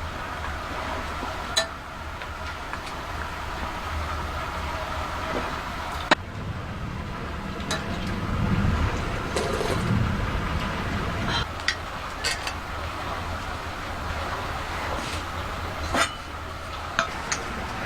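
Scattered sharp clinks and knocks, about seven in all, over a steady low rumble that swells briefly in the middle.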